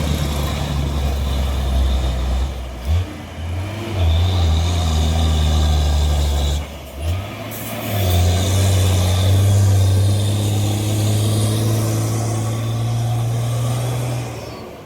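Heavy truck's diesel engine running under load, its note breaking off and picking up again several times in the first half and then holding steady before fading near the end. A brief hiss comes about seven seconds in.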